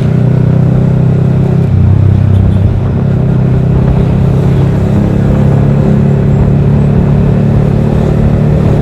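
Yamaha R15 V3's 155 cc single-cylinder engine running through a Daytona Evolution aftermarket exhaust, with a deep, bassy, steady exhaust note. The note shifts briefly about two seconds in, then settles again.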